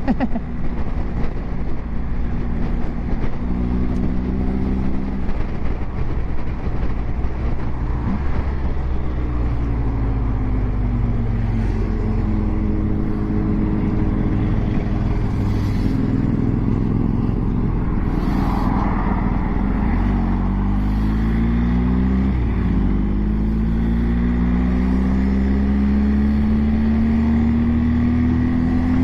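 Onboard sound of a BMW GS Adventure's boxer-twin engine under hard acceleration: the revs climb and drop several times as it shifts up through the gears, with a long rising pull near the end, over steady wind rush.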